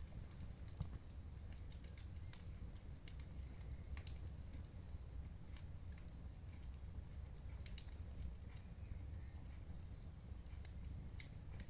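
Wood fire in a fireplace crackling: scattered, irregular pops and snaps over a low steady rumble.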